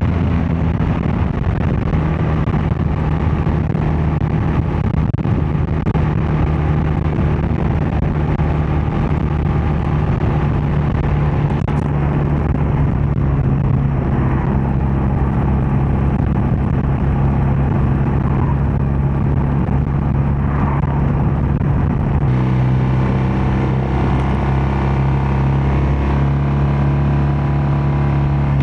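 BMW R12 nineT's air/oil-cooled boxer twin running steadily at road speed, its exhaust note heard from the moving motorcycle. The engine note changes pitch about three-quarters of the way through.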